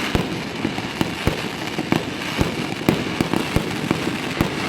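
Fireworks going off, with many irregular sharp bangs over a dense, continuous crackle.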